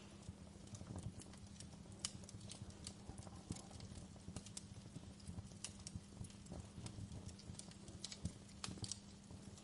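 Wood fire crackling in a fireplace: irregular sharp pops and snaps, several a second, over a steady low rumble from the burn.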